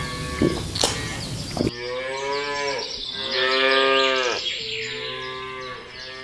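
Cow mooing: three long moos in a row, each sliding down in pitch at its end, the middle one the loudest. Before them, for a second or two, a noisy stretch with sharp clicks.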